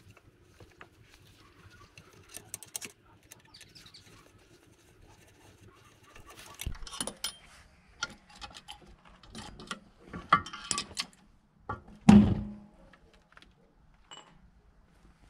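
Tools and metal engine parts being handled during a motorcycle engine teardown: scattered clinks and knocks, busier in the second half, with a loud knock that rings briefly about 12 seconds in.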